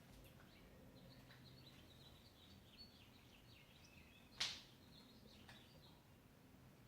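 Faint bird chirping in the background, with one brief sharp noise a little over four seconds in.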